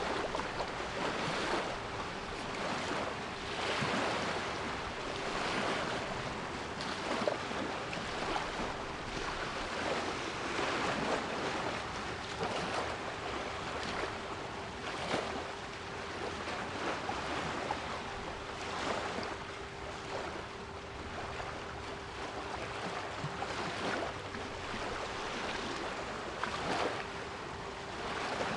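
Sea waves surging and washing back, swelling every couple of seconds, with a steady 396 Hz pure tone held underneath.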